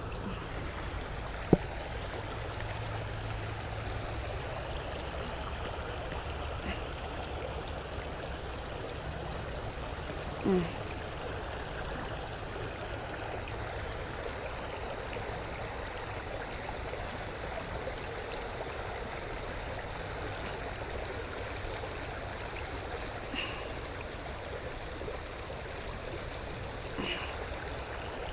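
Creek water running steadily. There is a sharp click about a second and a half in and a short, louder sound near ten seconds.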